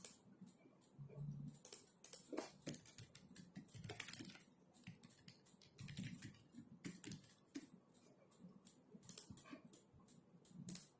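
Typing on a computer keyboard: quiet, irregular runs of keystrokes with short pauses between them.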